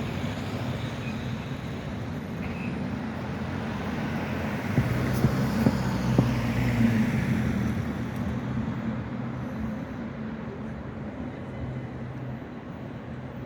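Electric tram running past on street track, its low motor hum growing louder with a few sharp clicks near the middle, then slowly fading as it moves away.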